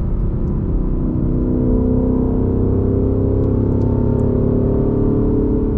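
2020 Ford Mustang GT's 5.0 V8 with a Borla S-Type cat-back exhaust, heard from inside the cabin while cruising. The engine note rises slightly about a second in, then holds a steady drone.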